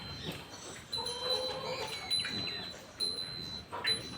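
Farmyard background: small birds chirping on and off, with a short pitched animal call about a second in.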